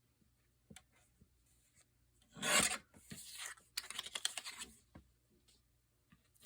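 Paper being cut to size, in short rasping strokes: the loudest about two and a half seconds in, then two more in quick succession, with a few faint ticks around them.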